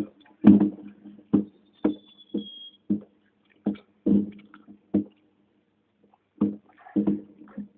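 Fireworks going off: a quick, irregular series of sharp bangs, with a high whistle falling slightly in pitch from a whistling rocket about two seconds in.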